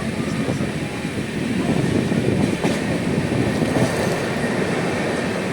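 A moving train running along the track, heard from on board: a steady rumble of wheels on rail.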